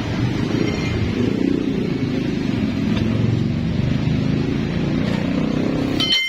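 An engine running steadily with a low-pitched, even sound. Just before the end there is a short high-pitched whine, and then the sound cuts off suddenly.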